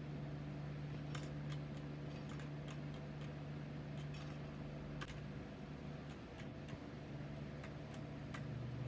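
Scattered light clicks and taps, irregularly spaced, of a budgie handling a small toy in a game, over a steady low hum.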